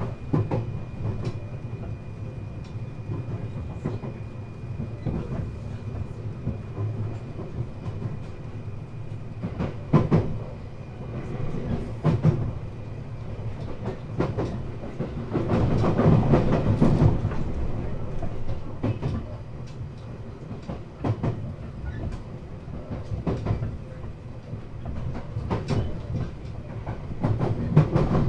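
Running sound inside a 521 series electric multiple unit (KuMoHa 521-6): a steady rumble with wheels clicking irregularly over rail joints, louder for a couple of seconds about halfway through.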